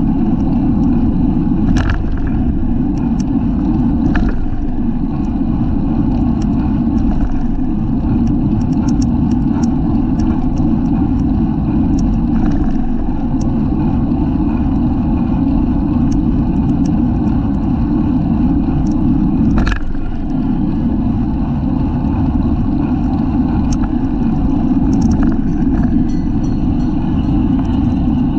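Steady wind rush and road rumble on a bicycle-mounted camera's microphone while riding at race speed, with a few sharp knocks from bumps about 2, 4 and 20 seconds in.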